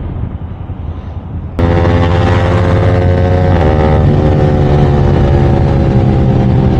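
Yamaha R15 V4's single-cylinder engine running at a steady speed through an aftermarket Akrapovic full-system exhaust: a loud, even drone that comes in suddenly about a second and a half in, after a muffled rumble of riding.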